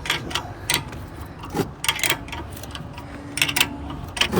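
Irregular metallic clicks and clinks of a wrench working a rear brake caliper bolt loose, with the occasional faint metal ring.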